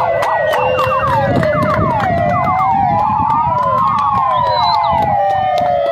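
Several fire-engine sirens sounding at once, sounded in celebration rather than on an emergency call. A slow wail rises and falls under many quick yelping sweeps, over a low rumble.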